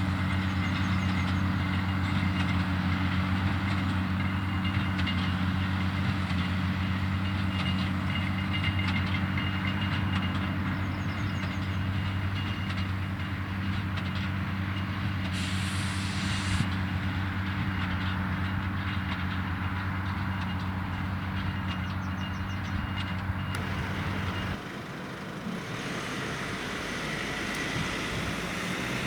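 Valtra tractor engine running steadily with a Claas Quadrant 2200 square baler working behind it, giving a dense, rapid mechanical clatter. A brief high hiss comes about halfway through. Near the end the engine's low hum drops away and the sound gets quieter.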